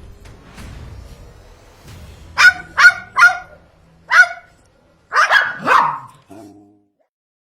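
A parrot giving a series of short, loud, bark-like calls: four sharp ones, then two longer calls and a fainter one near the end.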